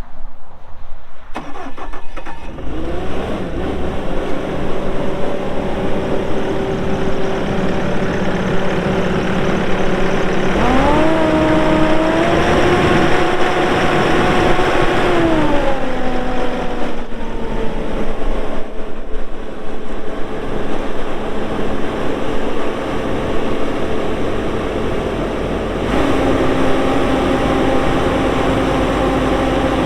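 Bobcat S770 skid steer's diesel engine starting up about a second in and settling to a steady run. About ten seconds in the engine is revved up, held for some five seconds, then brought back down, and the note steps up again near the end.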